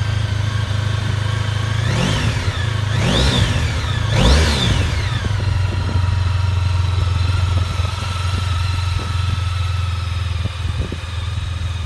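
Honda ST1300 Pan European's V4 engine idling steadily, with three quick throttle blips about two, three and four seconds in, the last the highest and loudest, each dropping straight back to idle.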